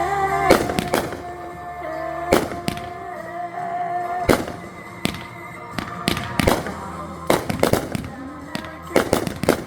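Backyard fireworks going off in a string of sharp bangs, several in quick clusters near the end. Under them, music holds a long final note that ends about four seconds in.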